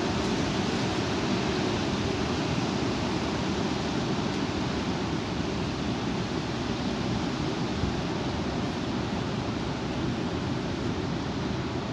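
Strong wind blowing, a steady rushing noise with a heavy low rumble.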